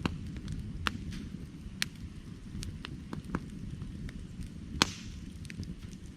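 Burning firewood crackling: irregular sharp pops and snaps over a steady low rumble of flame, with one louder pop followed by a short hiss about five seconds in.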